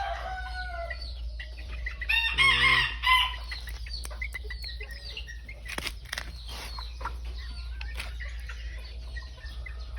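Bantam chickens clucking and calling, with one short, loud call about two and a half seconds in.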